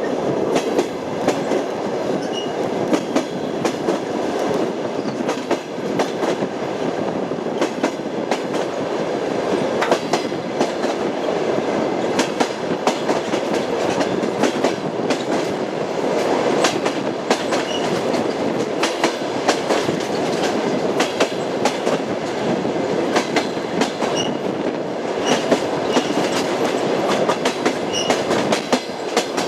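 Passenger train wheels clattering over rail joints on jointed track: a continuous rolling rumble broken by irregular sharp clicks.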